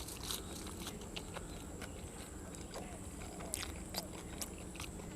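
A person chewing food close to the microphone, with sharp crunches scattered through at uneven intervals.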